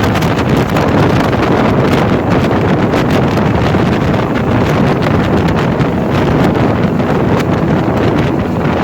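Wind buffeting the microphone aboard a speedboat running at speed: a loud, steady rush, broken by rapid crackles.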